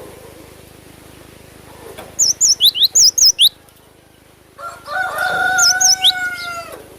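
Cinereous tit (gelatik batu) singing a quick run of sharp, high whistled notes, with a few more high notes later on. About four and a half seconds in, a rooster crows in the background with one long call.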